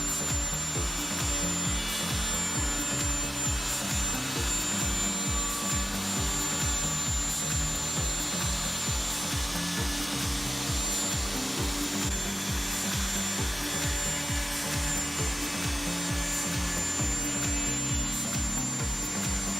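Power tool cutting wood steadily, with a thin high whine, over background music with a steady beat.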